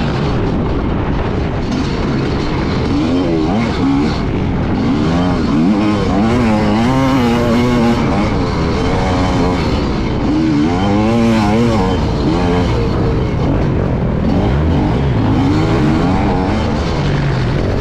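Dirt bike engine heard up close from the riding bike, its pitch rising and falling again and again as the rider works the throttle and shifts through the corners and jumps of a motocross track.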